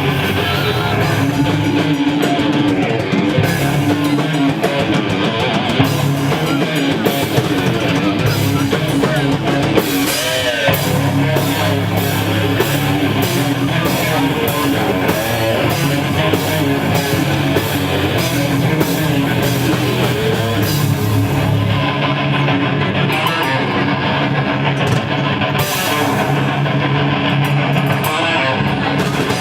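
Thrash metal band playing live: distorted electric guitars over a drum kit, loud and continuous.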